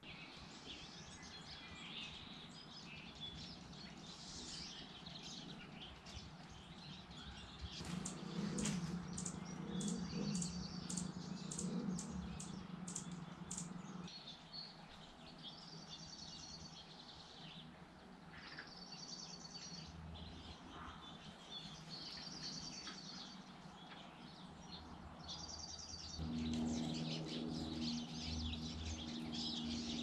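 Faint bird chirps, with a short high call repeated every couple of seconds and a quick run of sharp chip notes about eight seconds in. A low steady hum comes in underneath about a third of the way through, fades, and returns near the end.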